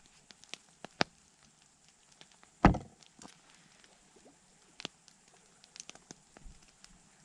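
Wood campfire crackling with scattered sharp pops, and one louder, heavier knock about two and a half seconds in.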